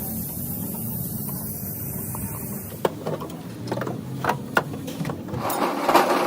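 A machine running with a steady low hum, then a series of sharp knocks and clatter from about three seconds in.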